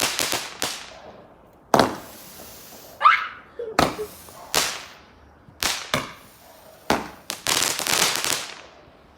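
Fireworks exploding: a quick run of sharp bangs, then single bangs every second or so, and a dense burst of crackling near the end.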